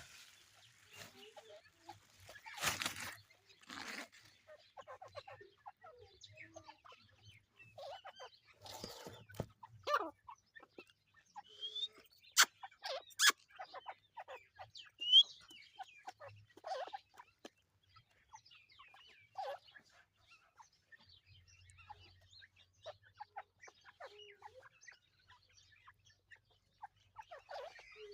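Teetar (partridge) giving scattered short clucks and chirps, with a few sharp clicks about halfway through.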